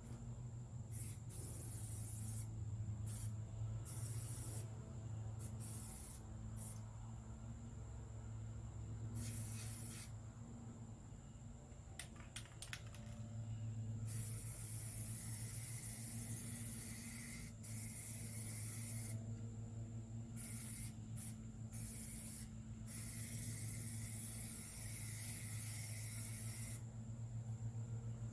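Hissing in on-off bursts: several short ones, then one long hiss through most of the second half, over a steady low hum.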